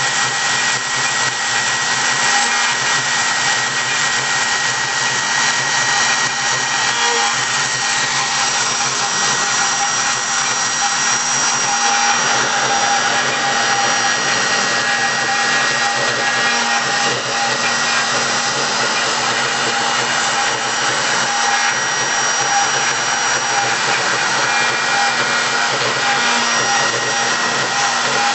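Mini CNC machine running, a steady motor whine with several fixed high tones over a mechanical hum.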